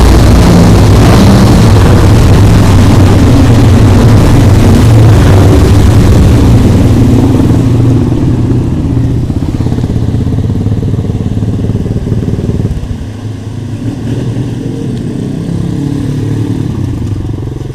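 Motorcycle engines running under way, loud and close for the first several seconds, with the pitch shifting as they rev. The sound then fades, dropping further about thirteen seconds in.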